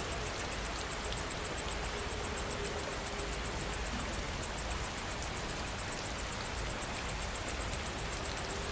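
Steady rainfall, an even hiss of falling rain, with an insect chirping in a fast, high-pitched, even rhythm of about five chirps a second over it.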